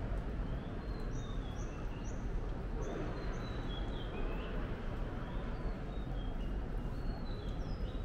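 Birds chirping in short, high notes, several of them falling slightly in pitch, scattered over a steady low background rumble.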